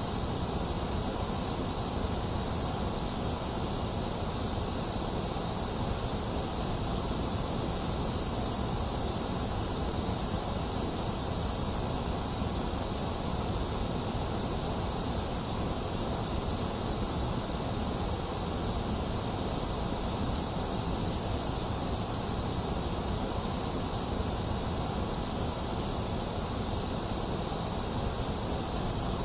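Box fan running together with steady rain, an even, unchanging noise with a bright hiss on top.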